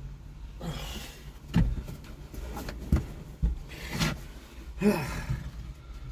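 A series of irregular knocks and clunks, five or so over a few seconds, over a steady low rumble.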